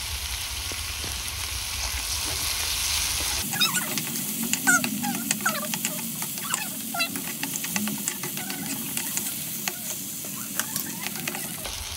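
Onion-tomato masala frying and sizzling in a pan, with the spoon clicking against the pan as it is stirred. About three and a half seconds in, the background hum drops away and faint short chirps sound over the sizzle until near the end.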